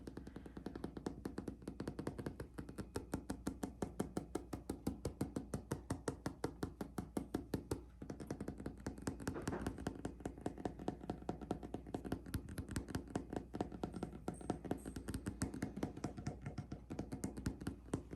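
Fingers tapping rapidly and steadily on a hard object, several quick taps a second, with a short break about eight seconds in.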